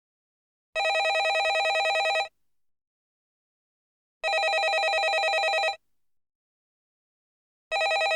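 Landline telephone ringing: three rings of about a second and a half each, with a fast trilling flutter, repeating every three and a half seconds with silence between.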